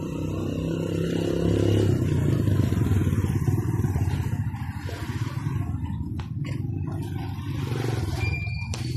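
Small motorcycle engine running with a steady low rumble, louder in the first half and easing off after.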